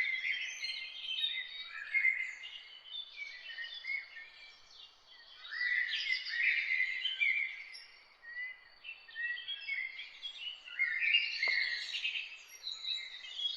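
Several songbirds singing and chirping at once, their quick phrases overlapping without pause, over a faint steady background hiss.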